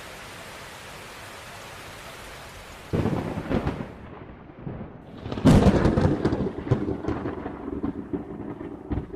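Steady rain hiss, then two heavy thunder rumbles, one starting suddenly about three seconds in and a louder one about five and a half seconds in, each dying away in crackles.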